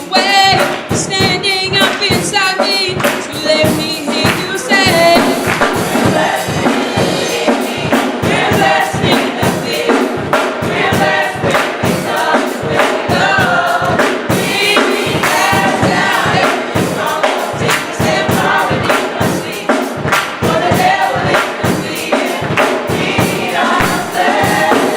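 Youth gospel choir singing with a steady beat and instrumental backing.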